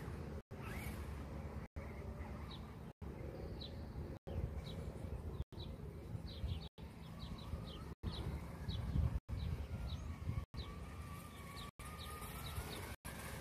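Small birds chirping outdoors: short, high, falling chirps repeated irregularly over a low rumble of wind and background noise. The sound is cut by brief silent gaps about every second and a quarter.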